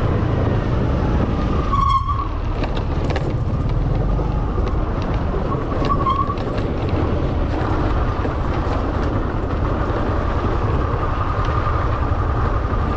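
Motor scooter riding along with steady engine noise and wind rush on a chest-mounted camera's microphone. A short high tone sounds about two seconds in and another about six seconds in.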